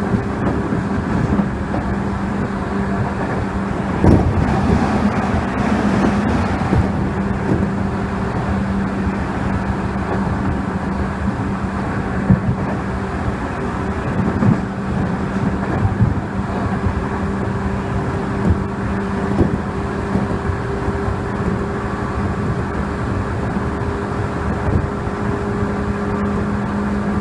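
Seibu 2000-series electric train running at a steady speed, heard from on board: a constant running rumble with a steady low hum and a fainter higher tone, and a few louder knocks from the wheels on the track, about 4, 12 and 14 seconds in. This is the train's normal running sound, free of the abnormal noise.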